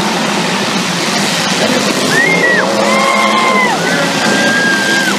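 Race trucks' engines running during a heat, under steady crowd noise. In the middle come a few long, high held calls from spectators.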